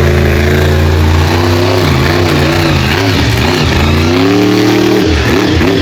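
A monster truck's big engine running loud, held steady at first and then revved up and down in uneven throttle swings, climbing once more before the throttle is chopped near the end.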